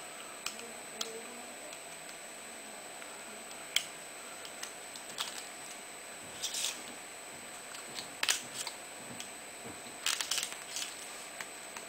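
Scattered small clicks and taps of tiny metal and plastic parts being handled as an RC helicopter's rotor head and shafts are taken apart, with a few quick clusters of clicks over a faint steady hiss.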